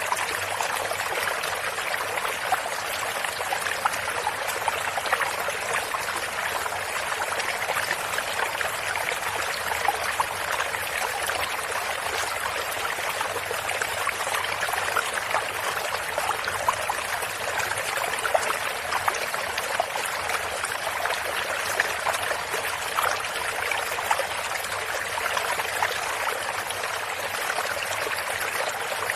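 Stream of water running and trickling steadily over stones, with small splashes and gurgles flickering through the flow.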